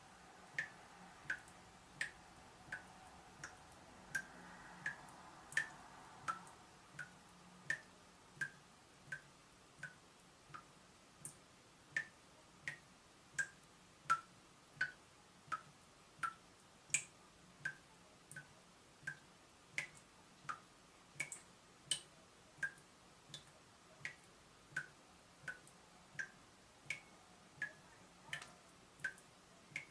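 Water dripping from a leaking tap: single drops landing at a steady, regular pace of about one every 0.7 seconds, each a short sharp plink.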